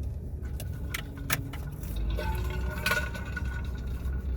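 Inside a moving car: low engine and road rumble that grows louder about two seconds in, with a few sharp clicks and rattles from the cabin.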